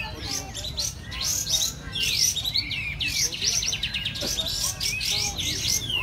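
A chorus of many songbirds chirping and singing at once, the dense din of a bird-singing contest, with short sweeping notes overlapping one another without pause.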